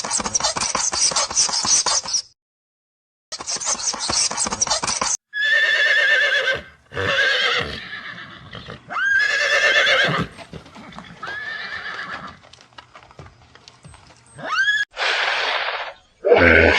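Horse neighing several times, long quavering whinnies with a trembling pitch and a few shorter calls that rise near the end. The first few seconds hold two bursts of harsh, rasping noise.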